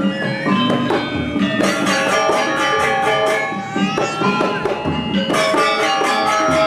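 Balinese gamelan music: bronze metallophones ringing in fast, interlocking repeated strikes with drums. The texture thins for about a second near the start, then fills back in.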